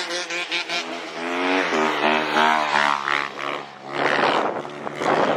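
Dirt bike engines at full throttle racing past, their pitch falling as they go by, with a change in pitch about a second and a half in. A rushing noise rises near the end.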